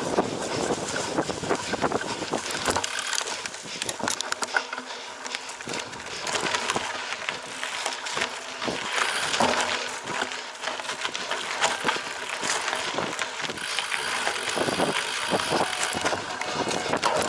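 Cyclocross bike ridden over rough off-road ground: a steady rush of tyres on dirt and grass, broken by frequent knocks and rattles from the bike.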